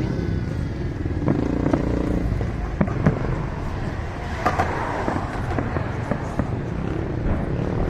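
Fireworks going off: a series of sharp bangs and pops at irregular intervals over a steady low rumble, with crowd voices.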